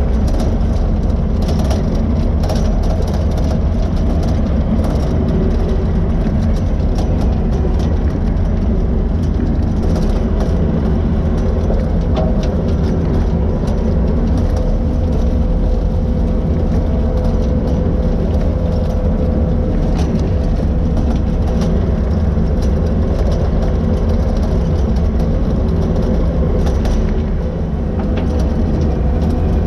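A heavy engine running steadily at a constant speed, with scattered sharp clicks and cracks over it.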